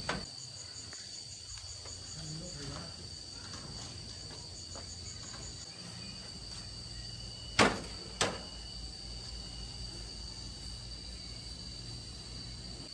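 Insects singing in a steady, high-pitched drone, with a faint pulsing trill in the first half. A little past the middle come two sharp knocks about half a second apart.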